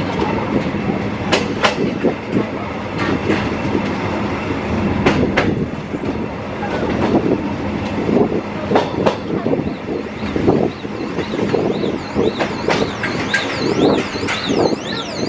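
Tourist train rolling slowly over jointed track: a steady rumble with irregular clicks and knocks of the wheels over rail joints. From about 11 seconds in, a level-crossing warning alarm sounds, a repeating rising-and-falling electronic tone.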